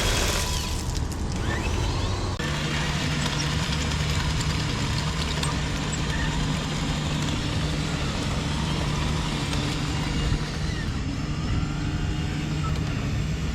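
Radio-controlled model construction vehicles running: a steady motor hum that sets in about two seconds in, with a faint whine rising and falling in pitch.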